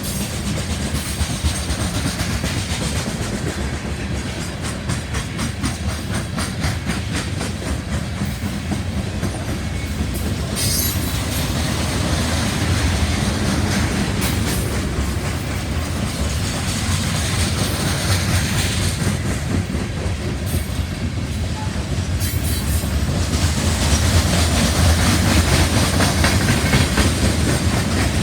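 BNSF coal train's hopper cars rolling past, a steady rumble with wheels clacking rhythmically over the rail joints and brief high wheel squeals now and then.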